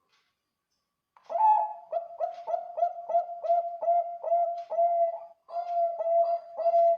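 Zebra dove (Bangkok-strain perkutut) cooing. After about a second of silence comes a rapid run of evenly spaced coo notes, about three a second, with a brief pause near the end before it carries on.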